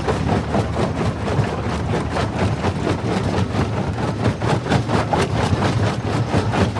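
Jaw crusher running under load: a steady low rumble with a dense, unbroken clatter of rock being crushed.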